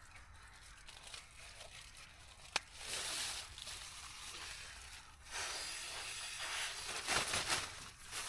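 Rustling and crinkling in long bursts, with a single sharp click about two and a half seconds in.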